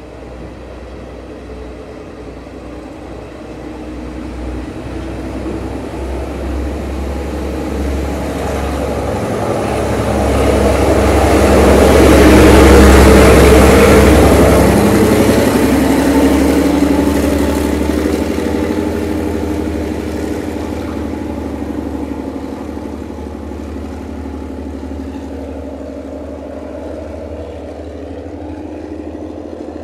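Sri Lanka Railways diesel multiple unit (powerset) passing close. Its engine and wheels on the rails grow louder to a peak about halfway through. The engine hum drops in pitch as the train moves off, and the sound fades.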